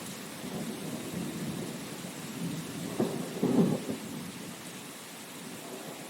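Steady rain hiss with low, rolling thunder underneath; the thunder peaks in a loud crack and rumble about three and a half seconds in, then fades away, leaving the rain.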